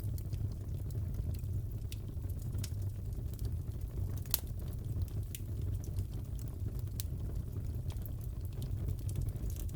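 Crackling fireplace: a steady low rumble of the burning fire with scattered pops and crackles, and one sharper snap about four seconds in.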